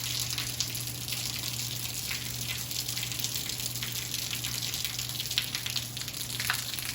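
Steady heavy rain falling, a dense hiss with many small drop ticks. A steady low hum sits under it.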